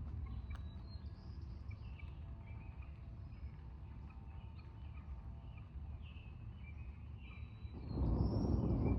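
Birds chirping outdoors over a steady low rumble. Near the end a much louder low rumble comes in suddenly.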